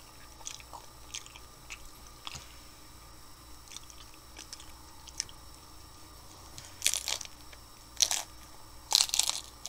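Someone chewing crunchy hard-shell tacos: faint wet chewing clicks, then three louder crunches of the taco shell about a second apart near the end.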